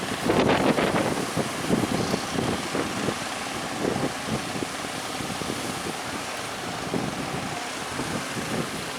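Strong wind buffeting the microphone over a small boat's engine running and sea noise, with the gusts heaviest in the first second.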